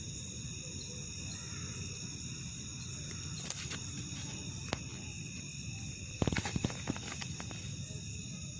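Shrill high-pitched chirping, pulsing about two to three times a second over steady high whining tones, with a few sharp clicks and a short rattle of clicks about six seconds in.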